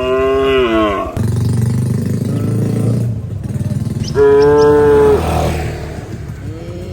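Cattle mooing: a short call falling in pitch at the start and a louder, steady call about four seconds in, over a steady low engine hum that starts about a second in.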